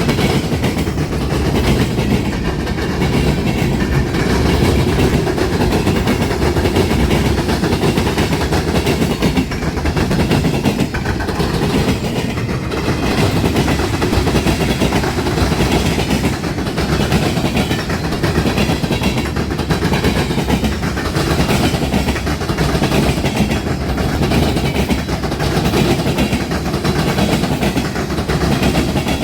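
A long train rolling steadily past, its railroad cars' wheels clacking and rumbling over the rails.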